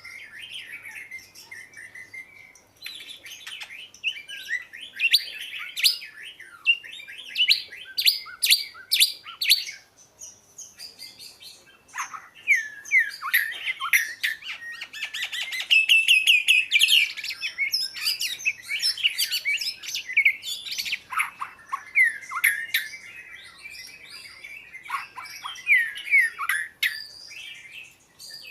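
Oriental magpie-robin singing: a long, varied run of whistled and sharper chattering notes, broken by brief pauses.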